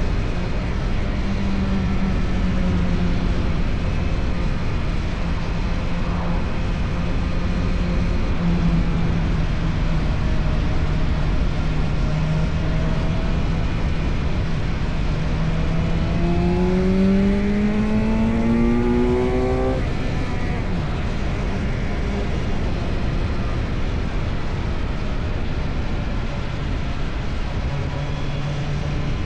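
Motorcycle engine with an Akrapovic exhaust pulling at a steady pitch. A little past halfway its pitch climbs for about three seconds under acceleration, then drops away suddenly. Heavy wind rush runs underneath.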